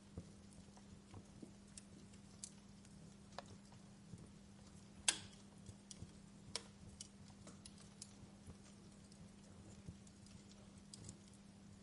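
Wood fire crackling in a fireplace: scattered faint pops and snaps at irregular intervals, with one sharper snap about five seconds in, over a faint steady low hum.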